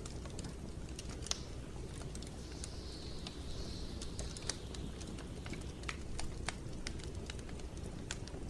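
Wood fire in a fireplace crackling, with irregular sharp pops over a steady low rumble of burning, and a soft hiss for a second or so near the middle.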